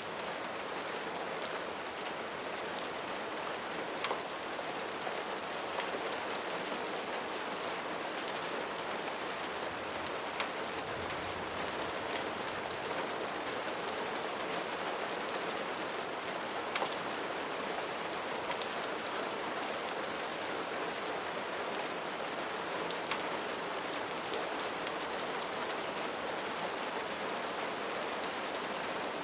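Steady rain falling on a surface, with a few sharp single clicks scattered through it.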